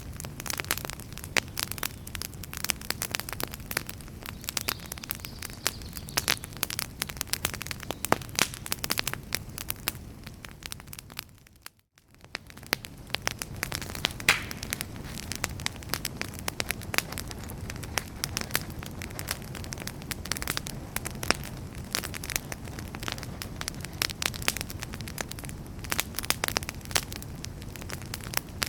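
Wood fire in a fireplace crackling and popping, many sharp snaps over a steady low rumble of flames. About twelve seconds in, the sound fades almost to silence for a moment, then fades back up.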